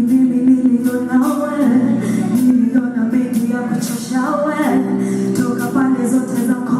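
Contemporary Christian gospel band music: voices singing over sustained chords, with regular percussion hits.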